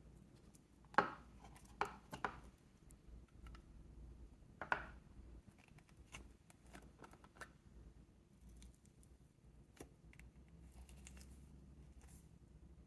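Slime and its plastic tub being handled: a few sharp clicks and pops about a second in, twice around two seconds and again near five seconds, then softer scattered clicks and crackles.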